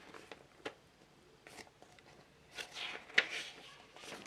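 Light handling noises at a workbench: scattered small clicks and rustles as plastic model parts and tools are picked up and set down, with a sharper click a little after three seconds.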